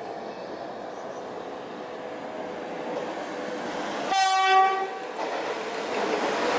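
A train approaching, its running noise building steadily, with a single horn blast of about a second shortly after the midpoint.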